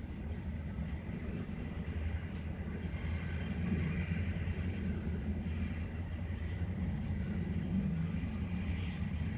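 Freight train moving off at a distance, its locomotive and wagons giving a steady low rumble and hum.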